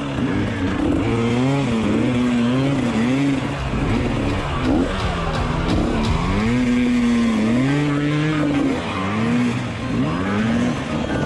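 Dirt bike engine revving up and dropping back again and again while being ridden, its pitch rising and falling about once a second.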